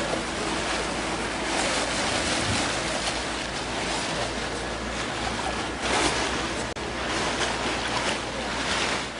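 Steady rushing noise with a low hum underneath, slightly louder about six seconds in.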